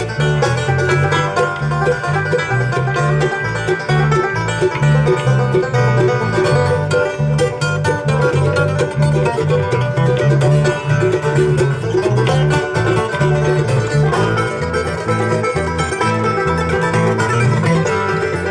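Live acoustic bluegrass-style band playing an instrumental break, plucked strings over a moving bass line.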